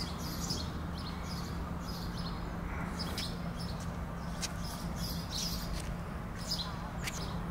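Small birds chirping, short high calls repeated about twice a second, over a steady low hum.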